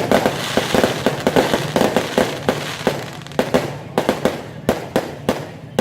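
Fireworks going off: a dense run of bangs and crackle that thins out to single loud bangs a few tenths of a second apart in the second half.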